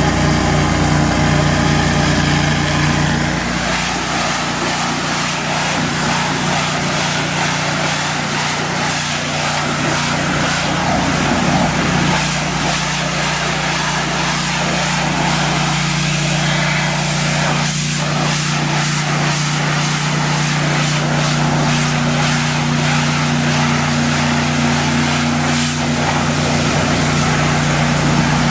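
Pressure washer's engine running steadily under a constant hiss. Its note shifts lower-down about three seconds in.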